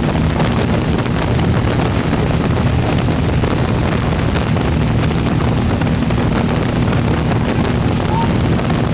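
Aircraft engine running steadily at a constant pitch, heard with heavy wind rushing over the microphone.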